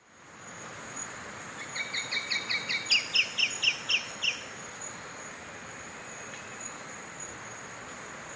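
Brown-backed honeyeater singing a quick series of about a dozen short, sharp notes, growing louder and stepping up in pitch partway through. A steady high insect trill and background hiss continue underneath.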